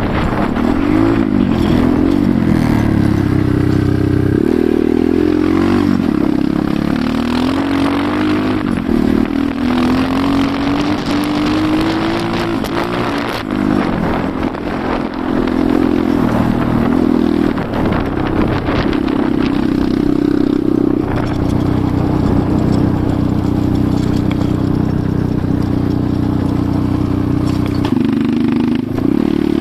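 Enduro motorcycle engine under way, its pitch rising and falling again and again as the throttle opens and closes, then holding steadier for a stretch in the second half.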